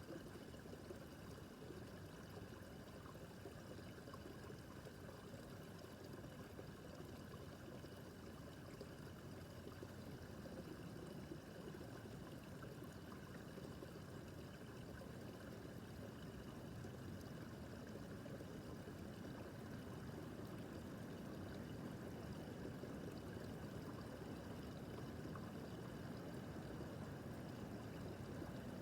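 Babbling brook: shallow water running and trickling over stones, a steady soft splashing.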